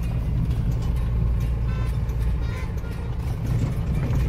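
Steady low cabin rumble of a Mahindra Bolero's diesel engine and tyres while it is being driven on the road, heard from inside the cab.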